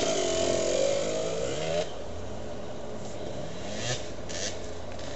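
Land Rover Discovery V8 engine running off-road, heard from inside the cabin. It works hard for about the first two seconds, then eases off to a quieter run with the revs slowly climbing, and a few short knocks and rattles come from the bodywork as it bumps along.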